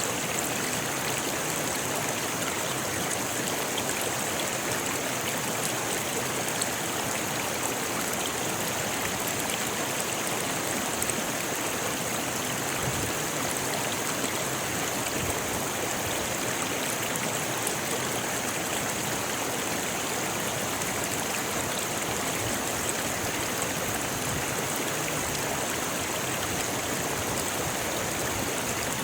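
Rocky river rushing steadily over stones, an even, unbroken wash of water.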